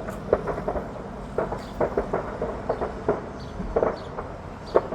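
Stored fireworks burning in a fire, going off in an irregular string of sharp pops and cracks, several a second, the loudest just before the end.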